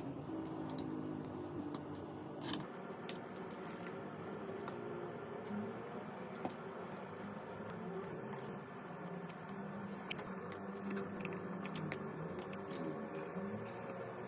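Scattered light clicks and taps of small tools and parts being handled, a few louder ones about two and a half, three and seven seconds in, over a steady low background hum.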